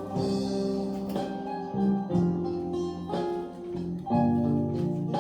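Instrumental interlude between verses of a gospel hymn: guitar-led accompaniment playing chords, a new chord struck about once a second, with no singing.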